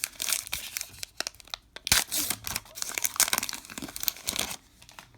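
Baseball card pack wrapper crinkling and tearing as it is ripped open, with one sharp snap about two seconds in; the crinkling stops shortly before the end.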